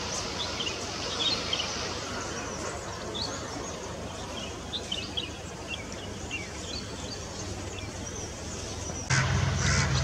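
Many short, high bird chirps scattered over a steady outdoor background hiss. About nine seconds in, the sound shifts abruptly to a louder, steady low hum.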